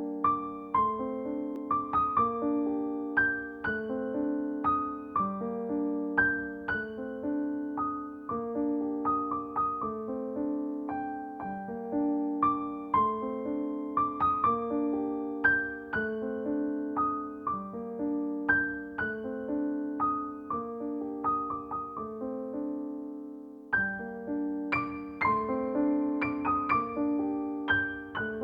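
Background piano music: a gentle melody of separate notes over sustained lower chords, pausing briefly near the end before picking up again.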